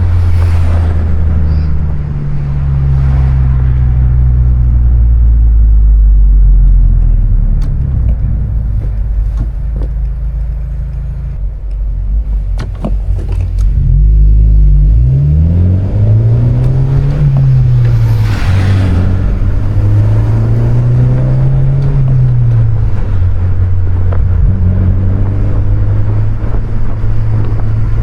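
2020 Honda Civic Si's turbocharged 1.5-litre four-cylinder engine running under way, with tyre and road noise. The engine's pitch holds low and steady at first, then rises and falls twice in the second half as the car is driven through the gears.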